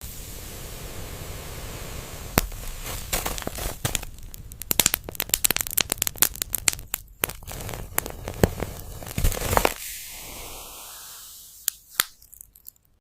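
Firewood burning in a wood stove, crackling and popping: a steady hiss with a dense run of sharp, irregular pops from about two seconds in, thinning out near the end.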